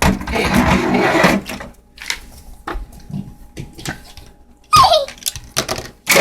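A child imitating horse sounds. There is a loud, breathy noisy sound near the start, then a short falling whinny about five seconds in, with scattered light clicks of plastic model horses being handled.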